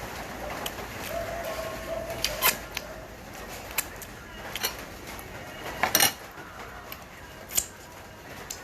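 Light eating sounds at a meal: a handful of sharp clicks and taps, loudest about six seconds in.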